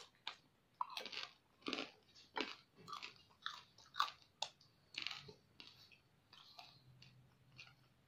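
A person chewing a mouthful of crispy pata (deep-fried pork knuckle) and rice, with short crunches about every half second, growing softer after about five seconds.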